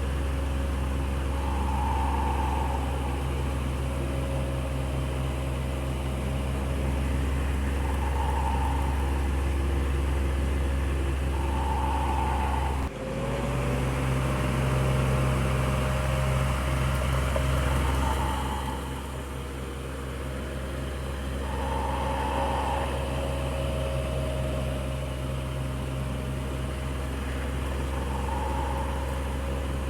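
Electric fan running steadily: a low motor hum with a rush of air and a faint tone that swells about every three seconds. A brief break about 13 seconds in, after which the hum's pitch settles slightly.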